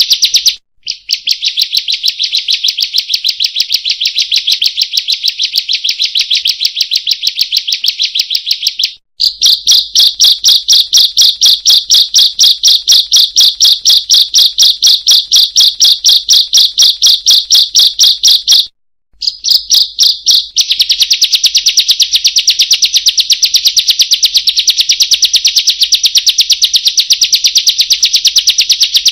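A ciblek (prinia) calls in a fast, unbroken run of sharp, high chirps, about five a second. The run pauses briefly twice, and the middle stretch is louder.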